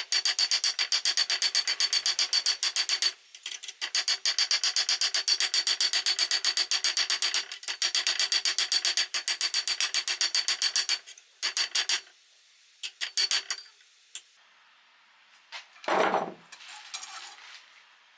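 Quick back-and-forth filing strokes, about five a second, in runs of a few seconds with short pauses, thinning out after about eleven seconds. A single louder scrape or knock comes about sixteen seconds in.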